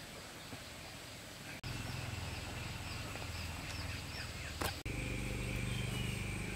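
Outdoor ambience: a steady background hiss with a faint steady high tone. The background changes abruptly twice, growing a little louder with a low hum each time.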